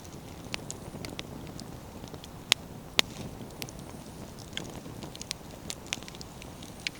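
Wood fire burning with a steady low rumble, the firewood crackling and popping irregularly; two sharp, loud pops about halfway through.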